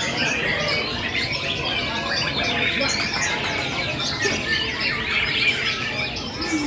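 Many caged birds singing at once, chiefly white-rumped shamas (murai batu) hung on a gantangan rack: a dense, unbroken tangle of overlapping chirps, whistles and trills.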